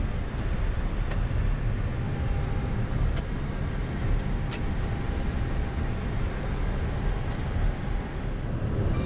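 Airbus A319 heard from the cockpit, rolling along the runway after touchdown: a steady low rumble of engines and wheels, with a few faint clicks.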